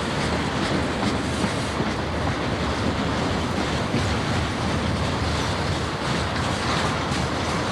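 Railroad cars of a passing train rolling by: a steady rumble of steel wheels on the rails, with scattered clicks as the wheels cross rail joints.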